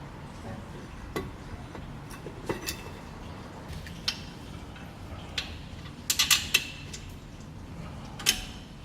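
Metal tools and parts clinking and tapping during work on a car's rear wheel hub bearing. The clinks come singly and sharp, with a quick loud cluster about six seconds in, over a steady low background rumble.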